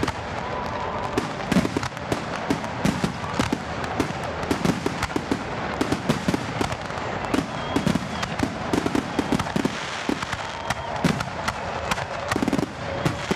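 Fireworks going off in a dense, irregular run of bangs and crackles over a continuous background of noise.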